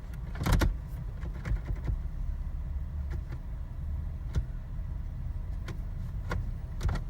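Car engine idling, heard from inside the cabin, with scattered sharp clicks and knocks from inside the car, the loudest about half a second in.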